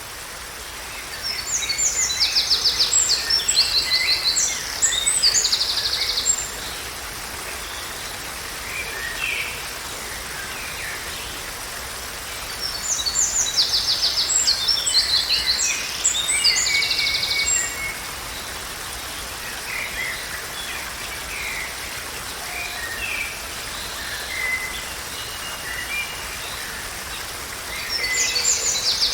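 A songbird singing long phrases of rapid high trills, each lasting about five seconds and returning roughly every eleven or twelve seconds, with other birds chirping more softly in between. A steady background hiss of natural ambience lies under it all.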